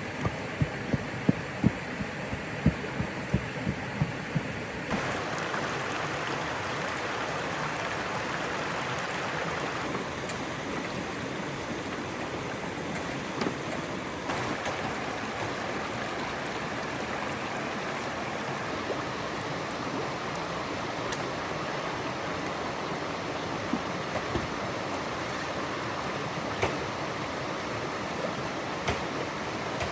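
Steady rush of flowing water from a stream or waterfall. A run of dull thumps, about two a second, sits over it for the first four seconds or so, and a few faint clicks come later.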